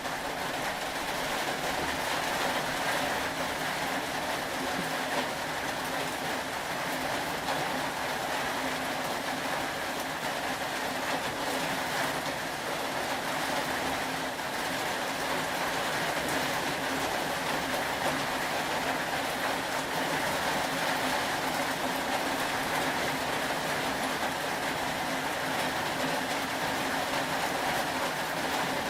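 Steady rain, an even rushing hiss that holds unchanged throughout.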